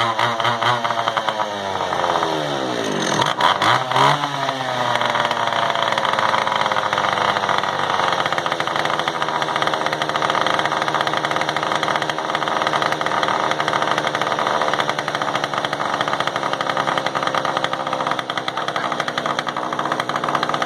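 Echo CS-330EVL two-stroke chainsaw engine running on a cold start after long storage. The revs are uneven at first, fall and pick up briefly about three to four seconds in, then settle to a steady idle.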